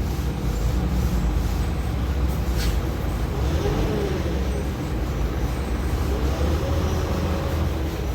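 Heavy diesel truck engine running steadily with a low drone, with a single sharp click about two and a half seconds in.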